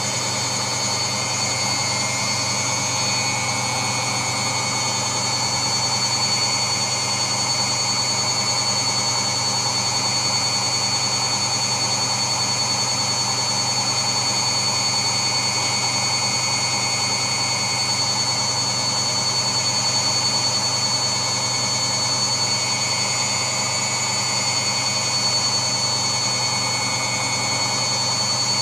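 A steady, unchanging white-noise drone, a constant whoosh with a few fixed tones running through it.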